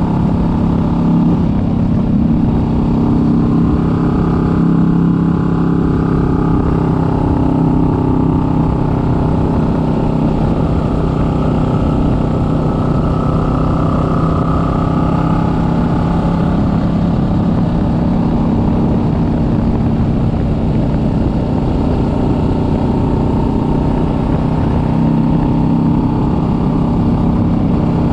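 Kawasaki Vulcan S 650's parallel-twin engine running steadily while riding, over a constant low rumble. Its pitch rises and eases a little a few times.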